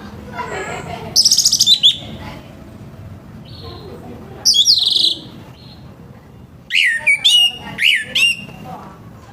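Orange-headed thrush singing in short loud phrases: a quick run of high notes a little over a second in, another phrase around the middle, and a string of sliding whistled notes near the end.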